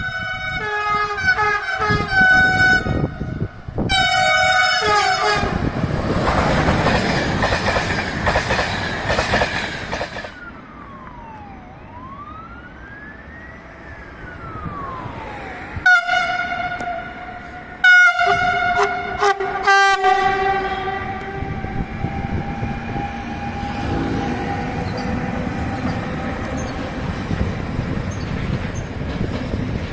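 Train horns sounding in several short multi-tone blasts, the greeting a train driver gives to people at the trackside. Between the blasts a passing train is heard, and the sound of its running carries on steadily after the last blasts.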